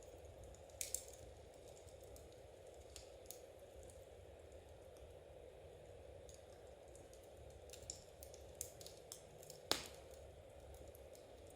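Faint, irregular clicks and pops over a low steady hiss, from knitting needles working yarn and a fire crackling; one sharper pop comes near the end.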